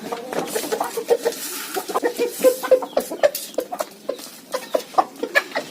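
Chickens clucking while feeding: a rapid scatter of short clucks mixed with quick sharp taps, typical of birds pecking at scattered feed.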